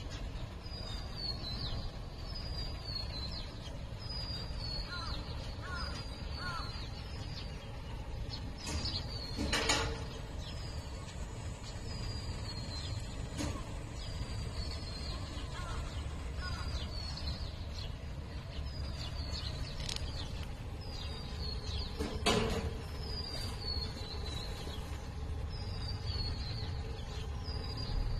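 A small bird calling over and over, a short falling chirp about every second and a half, over a low steady background rumble. Twice, about a third of the way in and again near three quarters, a louder, harsher sound stands out.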